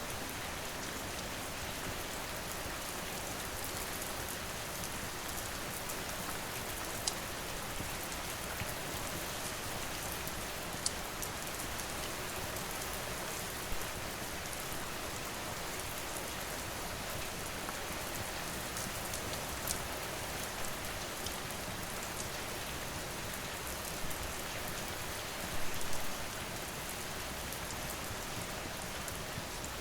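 Steady rain falling, with a few sharp pops and crackles from a wood fire scattered through it and a brief flurry of crackles near the end.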